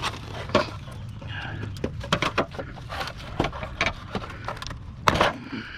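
Scattered clicks and clinks of small debris (steel screws, bits of plastic) being picked out of a scrapped window air conditioner and dropped, with a louder clatter about five seconds in, over a steady low hum.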